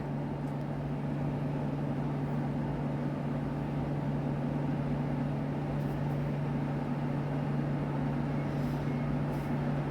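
A steady, unchanging low hum with an even hiss above it, like a motor or fan running in the room; nothing starts or stops.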